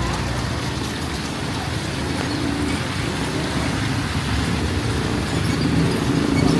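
Street traffic in heavy rain: vehicle engines running and tyres on a wet road as a steady rumble over the hiss of rain, growing a little louder near the end.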